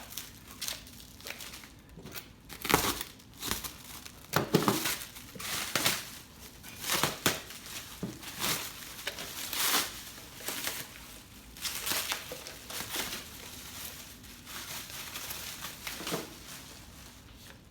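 Wrapping crinkling and tearing in irregular bursts as a new dirt-bike tire is unwrapped.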